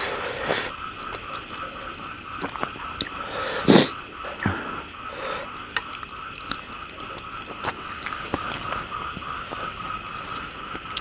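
Background chorus of frogs and insects: a steady, fast-pulsing high trill over a lower pulsing call, with scattered small clicks and one loud knock about four seconds in.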